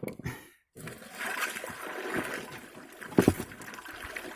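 Water sloshing and splashing as a trapped beaver is hauled out of the water, with a sharp knock at the start and a louder one about three seconds in.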